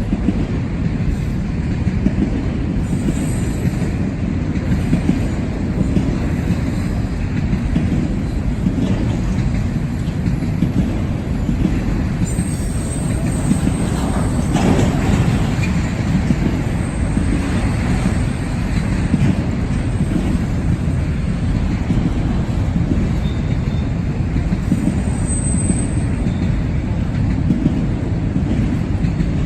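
Freight train rolling past, a steady loud rumble of wheels and cars on the rails.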